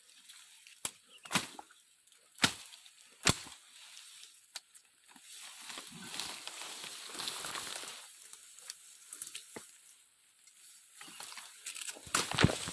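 Irregular sharp snaps and cracks, with a stretch of rustling in the middle, from twigs and leafy brush being broken and handled.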